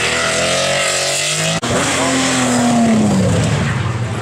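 Rally car engines under hard throttle, the pitch climbing. After a sudden brief break about a second and a half in, an engine note falls steadily as the car lifts off or passes by.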